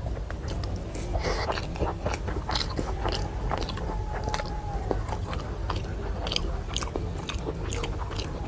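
Close-miked chewing and biting of a rice meal, with irregular wet smacks and clicks of the mouth.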